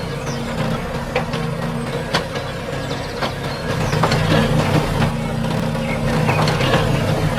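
Small electric motor running steadily with a hum, a little louder about four seconds in, with scattered light ticks over it.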